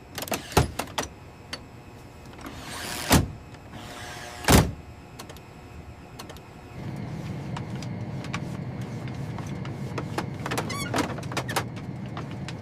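Mechanical clicks and two loud knocks, then from about seven seconds in a steady low motor-like hum.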